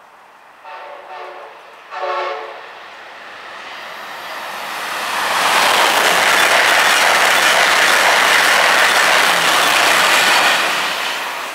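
Amtrak Acela Express high-speed trainset sounding its horn in three blasts as it approaches, two short and a longer one. It then rushes past at speed, a loud steady rush of wind and wheels on rail that builds over a couple of seconds and fades near the end as the last power car goes by.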